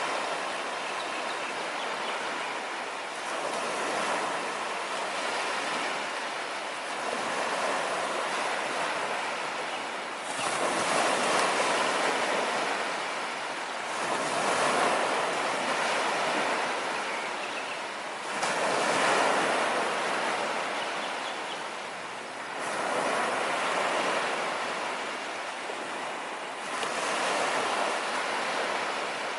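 Sea waves breaking on a sandy beach, the surf swelling and falling back about every four seconds.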